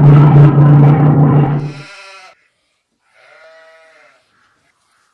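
Sheep bleating: a long, low, loud bleat, a short one right after it, then a fainter one about three seconds in.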